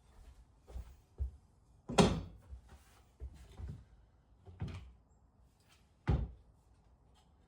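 A series of about six irregular knocks and thumps, like objects being set down or handled, the loudest about two seconds in and another sharp one near six seconds.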